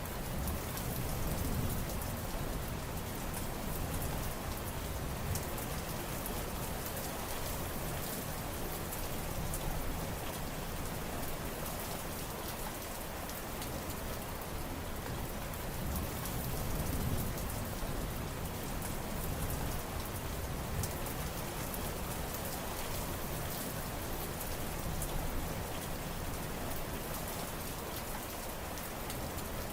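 Steady rain falling, an even hiss with many individual drops ticking.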